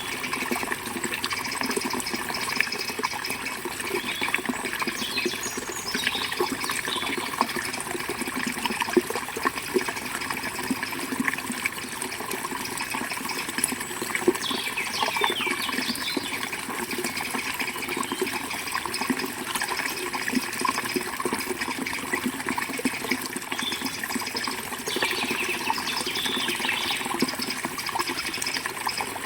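River water flowing steadily, with small birds chirping now and then over it, in a few short bouts.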